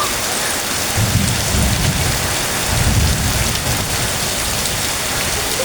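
Heavy rain falling steadily, with two low rumbles, about a second in and again around three seconds in.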